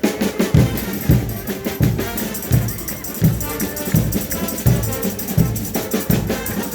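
Frevo music: a fast carnival band with a heavy drum on a steady beat, rattling percussion, and brass lines coming in near the end.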